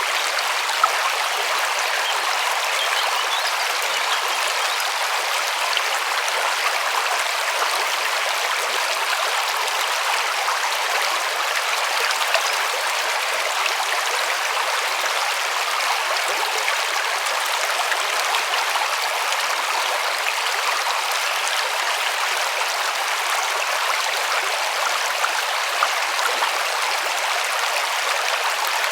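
River water rushing and splashing steadily over stones, an even hiss with small splashes now and then.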